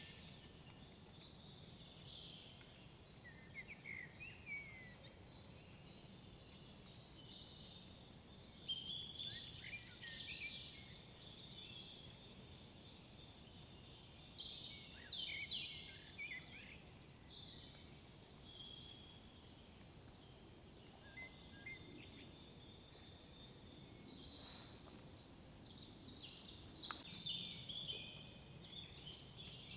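Several songbirds singing in woodland, with varied overlapping phrases and a high, quick trill that recurs every several seconds.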